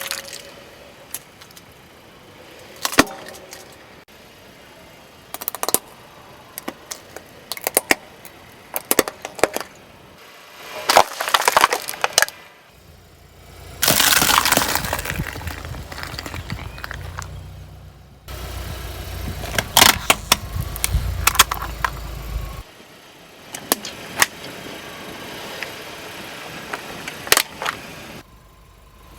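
Repeated cracking, snapping and breaking as brittle objects are crushed under a car tyre. A low rumble from the car runs under the crunching for several seconds near the middle.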